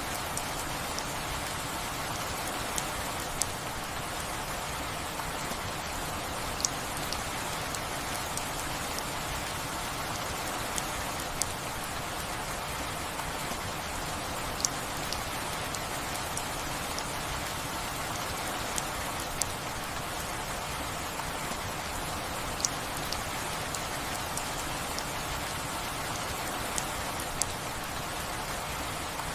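Steady rain falling, an even hiss with occasional distinct drops landing close by, sharp ticks every second or two.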